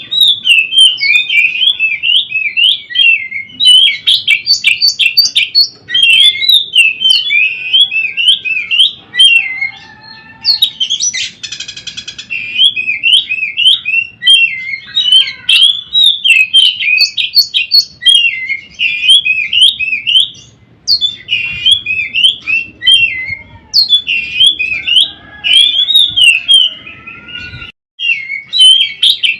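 Oriental magpie-robin (kacer) singing a long, fast, varied warbling song of quick whistled notes, broken by a harsh buzzy note about eleven seconds in.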